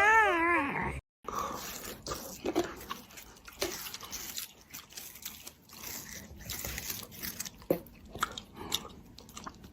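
Crunching and chewing: irregular crisp clicks and crackles, as of a pet biting into something crunchy. The first second holds the end of a wavering high voice or tune, cut off abruptly.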